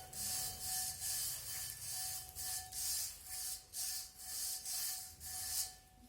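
Rhythmic back-and-forth scrubbing strokes, about two a second, on the metal of a rear brake drum being cleaned by hand; the strokes stop shortly before the end.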